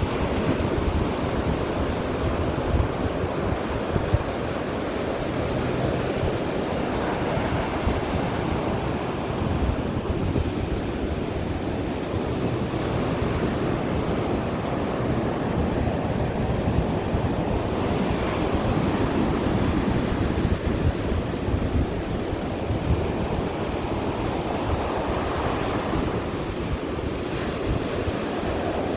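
Ocean surf washing ashore in slow swells, with wind buffeting the microphone.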